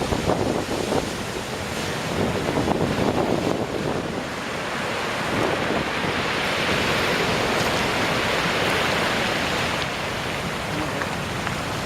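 Atlantic waves crashing on a rocky shore: uneven surges of surf early on, then a long hissing wash of foam that swells through the middle and eases off near the end.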